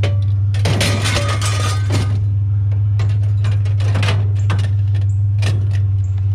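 Scrap metal pieces clinking and clanking as they are handled, in two clusters of sharp knocks, over a steady low hum.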